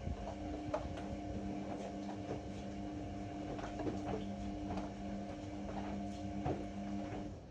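Ariston AML125 washer-dryer running: a steady motor hum with irregular soft knocks from the turning drum. The hum stops near the end.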